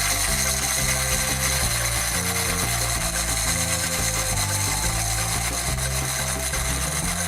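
Small electric motor of a toy kitchen appliance whirring steadily, over background music with a stepping bass line.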